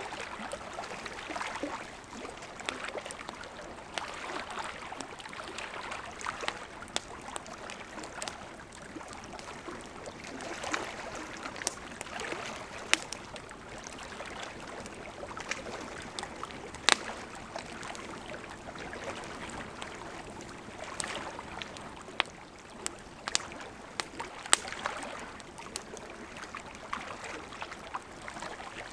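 Wood campfire burning: a steady soft hiss with frequent sharp crackles and pops, a few of them much louder than the rest.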